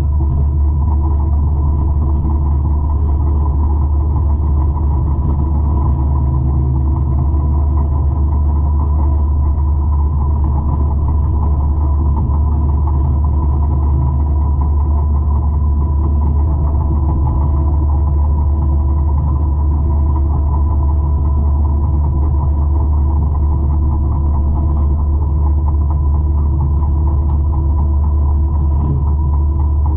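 Engine of a 200-horsepower forestry mulcher running steadily under load: a constant deep drone with a steady hum, no change in pitch or level.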